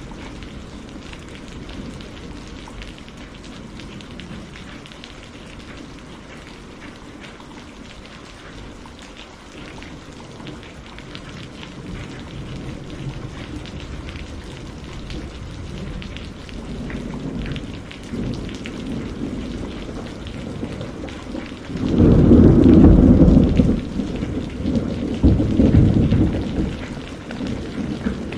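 Steady rain falling, with thunder rumbling low and building through the middle; a loud, deep thunderclap rolls in about three quarters of the way through, followed by a second, smaller rumble.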